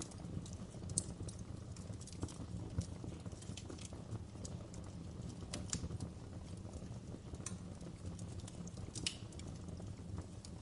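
Wood fire crackling: irregular sharp pops and snaps over a steady low rumble of burning, with louder pops about a second in, near three seconds, and about nine seconds in.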